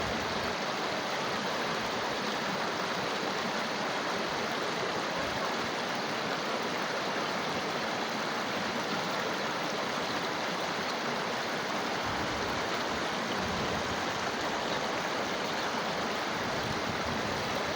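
Steady rushing of river water, an even unbroken sound.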